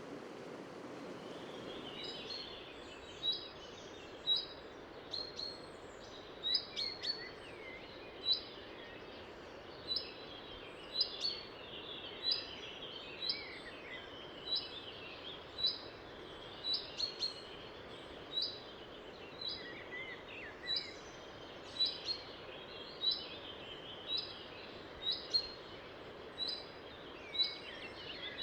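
Songbirds singing. From about two seconds in, one bird repeats a short high note about once a second while others chirp and warble, over the steady rush of the river.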